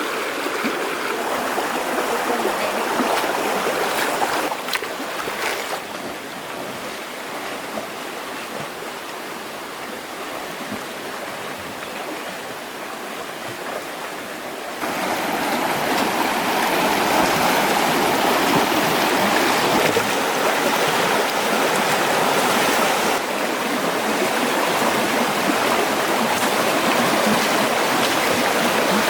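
Flowing stream water, a steady rushing noise. It drops to a quieter rush about five seconds in and grows louder again about halfway through.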